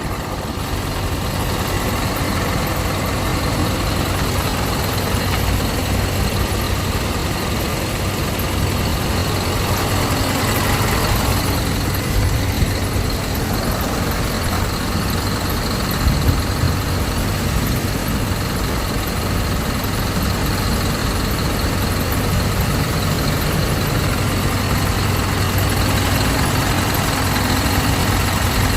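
Parked delivery truck's engine idling steadily at about 1,000 rpm.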